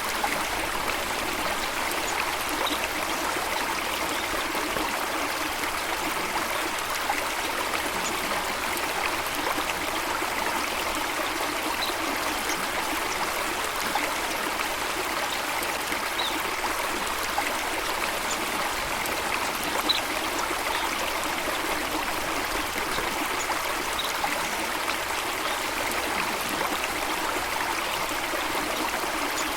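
Steady rushing of flowing water, an even unbroken wash, with a few faint, short, high chirps now and then.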